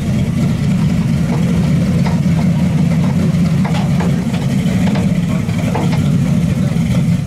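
Chevrolet Malibu drag car's engine idling: a loud, steady low rumble as the car rolls slowly forward and stops.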